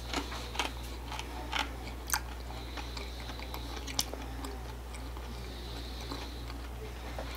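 A person chewing food close to the microphone, with a few sharp, irregular crunches, over a steady low hum.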